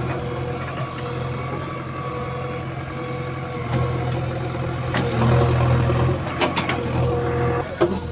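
JCB 3DX backhoe loader's diesel engine running steadily, getting louder about five seconds in as it takes more load, with a few sharp metal knocks late on.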